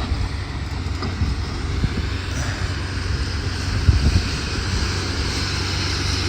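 Steady drone of a running engine, with a few short knocks about four seconds in.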